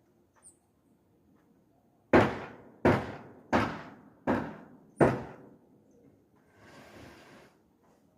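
Azure jay giving a series of five loud, harsh calls, about one every 0.7 seconds, then quieter noisy calls near the end.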